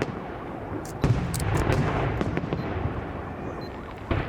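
Fireworks going off: a loud burst about a second in, then a dense run of booms and crackles that eases off near the end.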